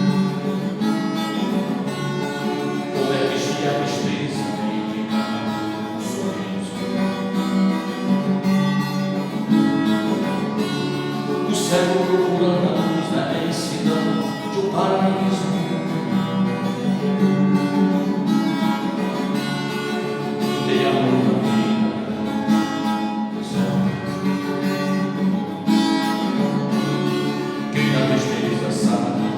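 Acoustic guitar (violão) strummed steadily in chords, playing a song's instrumental passage.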